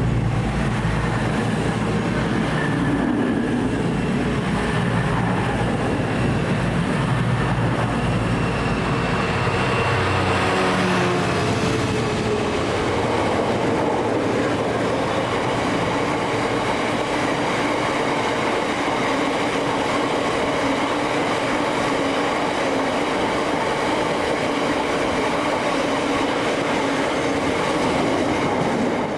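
Diesel train running through the station at close range, engine note and wheels on the rails together. The engine note fades about eleven seconds in, leaving a steady rolling rumble of wheels on track.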